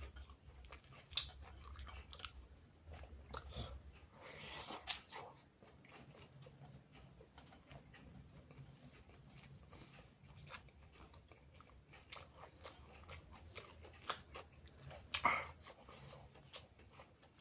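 A person chewing and biting food close to the microphone: many small wet mouth clicks, with a few louder bites about a second in, about five seconds in and near the end.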